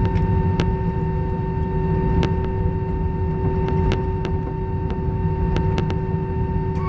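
Airliner cabin after landing: a steady low rumble with two constant hum tones, and a few sharp clicks scattered through.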